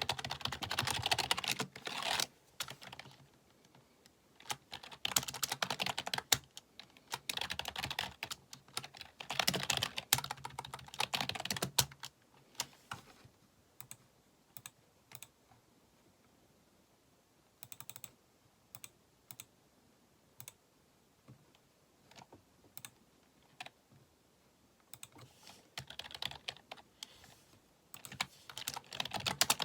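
Computer keyboard being typed on, the keys clacking. There are fast runs of keystrokes with short pauses, then slow, scattered single key presses through the middle, and fast typing picks up again near the end.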